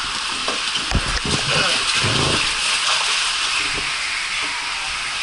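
Water rushing on a water slide, a steady loud hiss, with a couple of low thumps about one and two seconds in.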